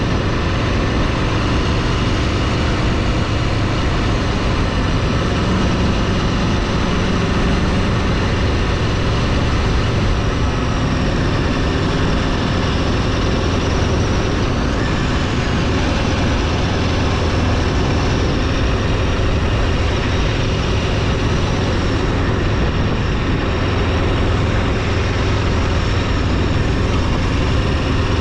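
Steady engine and road noise from a moving vehicle, with a constant low rumble and a dense hiss of wind.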